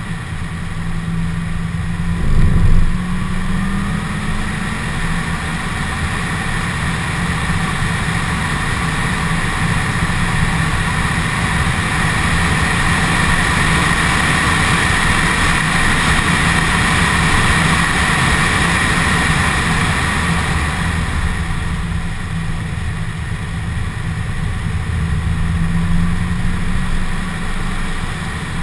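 2015 Corvette Z06's supercharged 6.2-litre V8 running hard on track, with a high supercharger whine that grows stronger through the middle stretch. A brief louder burst comes about two and a half seconds in.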